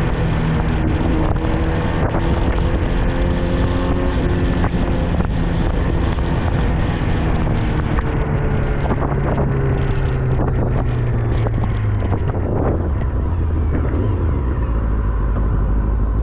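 Honda CBR250RR MC22 inline-four engine running on the move, with wind rushing over the microphone. The engine note falls slowly as the bike slows, dropping lower in the last few seconds.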